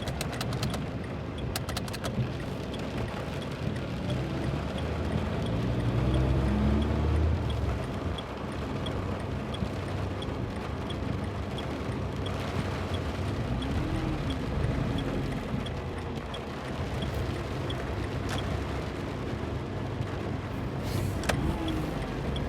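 A motor engine running steadily with a low rumble, growing louder for a few seconds about a quarter of the way through.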